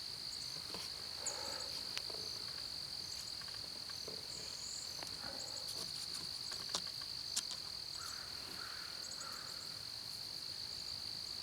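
Steady high-pitched chorus of crickets, with a few faint short chirps and light clicks scattered through it.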